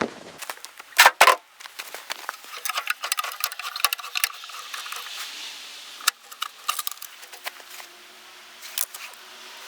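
A wrench and other metal hand tools being handled at the track roller: two sharp metallic clicks about a second in, then a string of light ticks and rattles.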